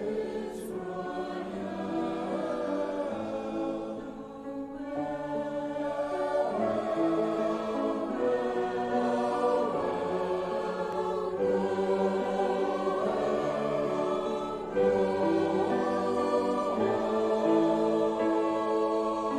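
Choir singing a hymn in harmony, with held notes that change chord every second or two and a brief softer moment about four seconds in.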